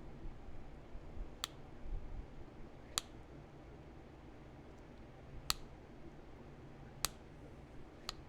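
Five sharp, isolated clicks, a second or two apart, of a pressure flaker working the edge of a heat-treated chert point.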